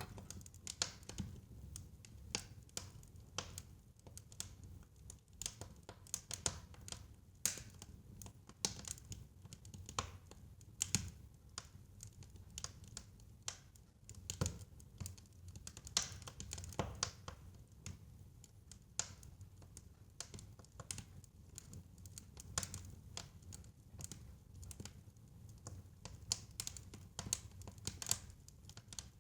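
Fire crackling in a fireplace: irregular sharp pops and snaps, some louder than others, over a steady low rumble.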